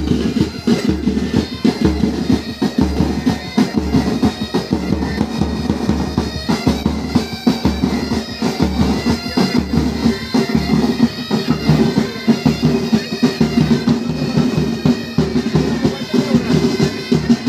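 Military pipe band playing: bagpipes over their steady drones, with snare side drums and a bass drum beating.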